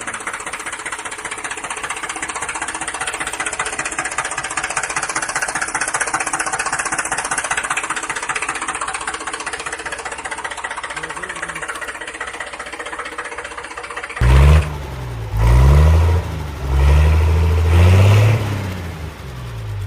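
A toy vehicle's small electric motor and plastic gears whirring with a fast, steady buzz. About fourteen seconds in it gives way to four loud, low droning bursts that waver in pitch.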